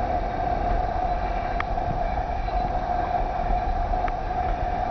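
Steady, unbroken running drone of a snowblower engine, with two faint clicks partway through.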